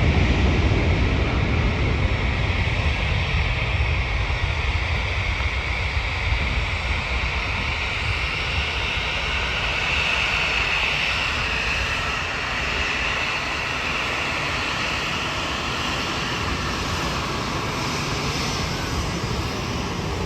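Jet airliner's engines passing: a deep rumble, loudest at first, that slowly fades while a high engine whine swells about halfway through and then eases off.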